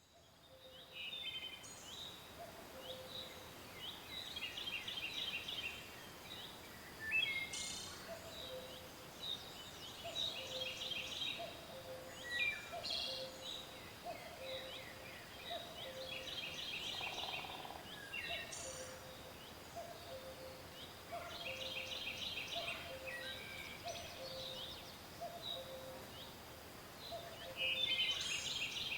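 Several birds singing in a forest. One repeats a high, rapid trilled phrase every five or six seconds. Another keeps up a low two-note call about once a second, with a few sharp high calls in between.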